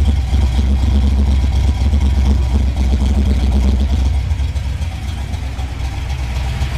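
A 1988 Mustang GT's 5.0-litre (302) small-block Ford V8 idling steadily, a low, even engine note. It has settled down to idle as it should. It gets a little quieter about four seconds in.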